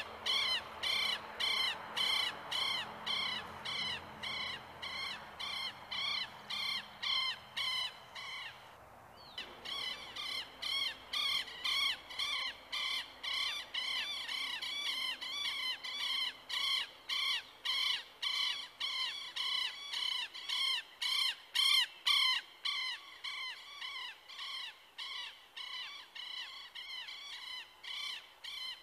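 A bird calling over and over, about two harsh calls a second, with a brief pause about nine seconds in.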